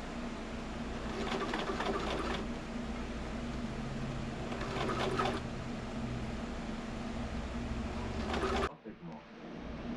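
Sewing machine stitching upholstery fabric in three short runs of rapid, even needle strokes over a steady hum. The sound cuts off abruptly about nine seconds in and comes back near the end.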